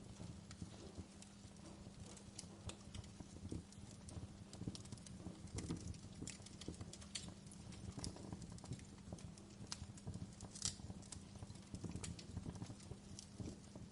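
Wood fire burning in a fireplace: irregular sharp crackles and pops from the logs over a low steady rumble of the flames, with a louder pop about ten and a half seconds in.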